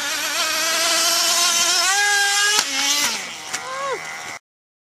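Small nitro RC car engine screaming at high revs with a wavering pitch that climbs and holds, then drops away near the end. A sharp knock comes about two and a half seconds in and another a second later, then the sound cuts off suddenly.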